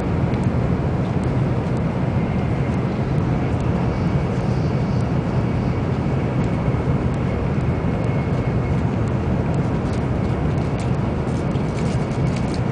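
Steady low rumble of a Nozomi Shinkansen bullet train running at speed, heard inside the passenger cabin, with a faint steady high whine and a few light clicks near the end.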